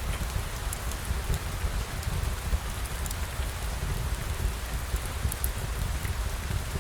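Steady rain, with a low rumble beneath and scattered small ticks.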